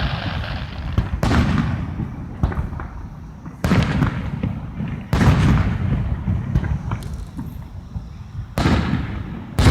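Fireworks going off: about five sharp bangs, one to two and a half seconds apart, each followed by a low rumbling echo that fades out.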